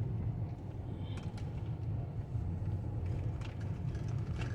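Van's engine and road noise heard from inside the cab while driving slowly, a steady low rumble.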